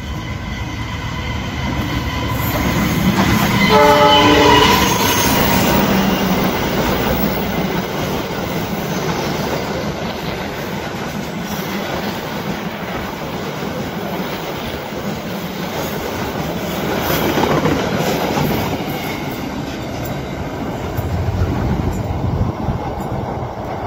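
Argo Parahyangan passenger train passing close by, led by a diesel locomotive. The locomotive gives one horn blast about four seconds in, the loudest moment, then the locomotive and coaches run past with a continuous rumble of wheels on the rails.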